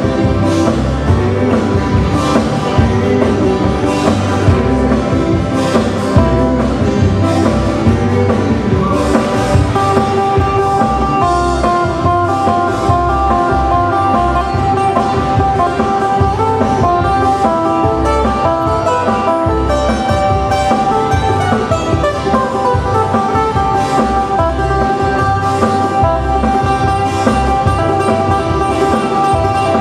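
Band playing Hawaiian music: an instrumental passage led by guitar, with a steady low end.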